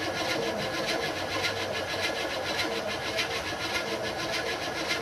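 1979 Chevrolet Caprice engine idling steadily, with a regular ticking clatter over its running.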